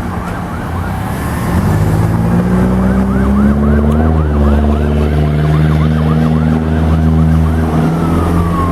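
Fire apparatus diesel engine pulling away with its electronic siren yelping, about three to four sweeps a second. Near the end the siren switches to a slow wail that glides down.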